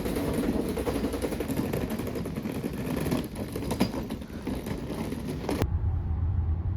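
Vehicle running with road and rumble noise and scattered clicks. About five and a half seconds in, the sound cuts abruptly to a lower, steadier rumble.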